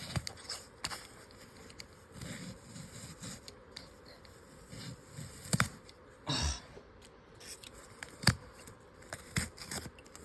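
A paper-craft phone being scraped and picked at by hand: scattered sharp taps and clicks, with a short scrape of paper about six seconds in.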